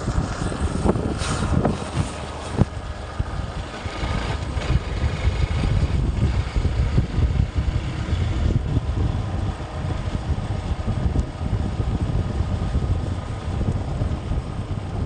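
Wind rushing over the microphone of a moving motorcycle, with the engine running underneath. A few short knocks come in the first three seconds.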